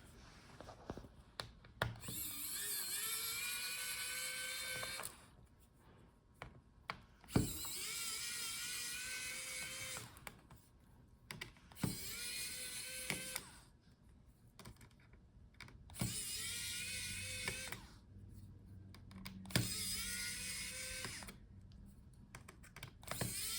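Electric precision screwdriver backing out a laptop's motherboard screws: six short runs, each opening with a rising whine as the motor spins up, with small clicks between runs.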